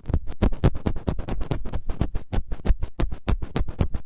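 ASMR scratching on a close microphone: a fast, even run of short scratching strokes, about eight a second.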